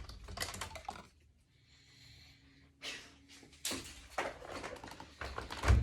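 Unpacking noises: rustling, then a handful of sharp clicks and knocks as the truck is worked free of its box packaging and zip ties, the loudest knock near the end.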